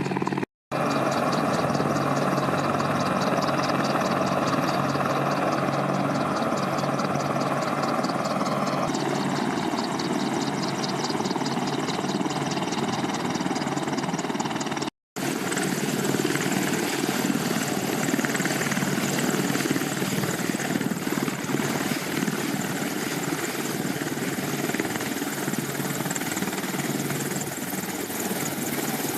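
Military helicopter running close by: steady rotor and turbine noise, with a fast, regular pulsing in the first part. The sound cuts out briefly twice where the footage is edited, and the mix of engine and rotor noise changes after each cut.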